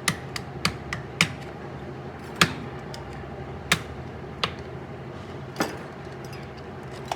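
Irregular clicks and knocks of hand tools on metal gearbox parts, about eight in all, the loudest about two and a half seconds in, over a steady workshop hum.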